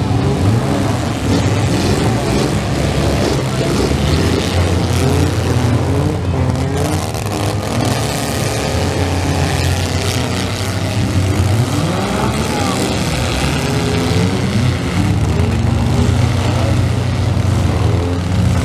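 Several compact demolition-derby cars' engines running and revving at once, their pitches rising and falling over a steady low drone.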